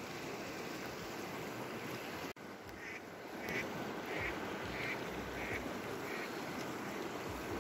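River water rushing, then, after a brief cut-out, a series of about six short calls from birds flying overhead, repeated roughly every half second over steady background noise.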